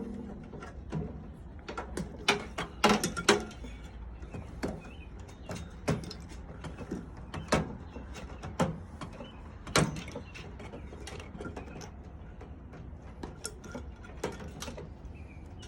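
Irregular metallic clicks and knocks of hand tools and loose parts inside a microwave being taken apart for scrap, as a wire is worked free from around the transformer. A quick cluster comes about three seconds in, then single clicks every second or two, fewer near the end.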